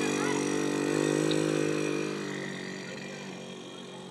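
Motorbike engine running steadily, then fading away from about two seconds in as the bike moves off.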